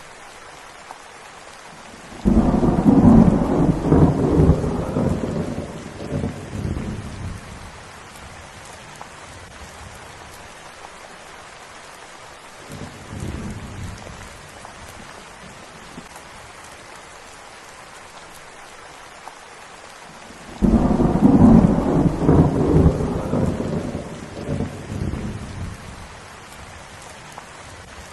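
Steady rain falling, with two loud claps of thunder that break in suddenly and roll away over several seconds, about eighteen seconds apart, and a fainter, shorter rumble between them.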